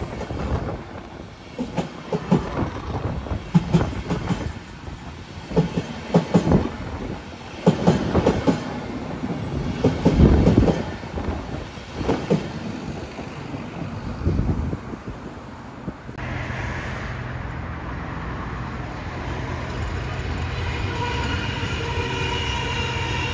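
Flixtrain passenger coaches rolling past close by, their wheels thumping over the rail joints in irregular beats every second or two. About two-thirds of the way in the sound changes suddenly to the steadier hum of a red Hamburg S-Bahn electric train, with a whining tone building near the end.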